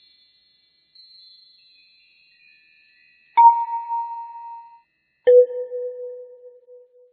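Bell-like ding sound effects: faint high tinkling tones, then two single struck dings about two seconds apart, the second lower in pitch, each ringing out and fading.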